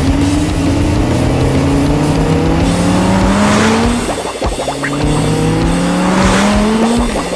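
Cartoon vehicle engine sound effect revving up in a long rising pitch twice, each rise ending in a brief rattle of clicks, over background music.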